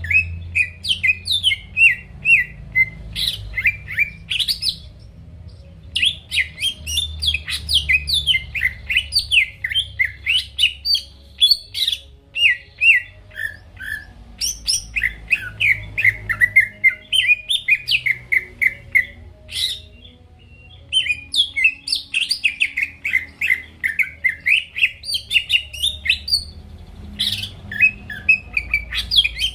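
A cucak ijo (green leafbird) singing in full voice: long runs of fast, varied, high chirping notes that rise and fall, broken by a few short pauses.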